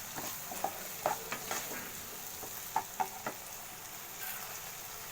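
Onion, capsicum and chilli paste sautéing in oil in a kadai, a steady sizzle, with a spoon scraping and knocking against the pan as it is stirred, several knocks in the first three and a half seconds.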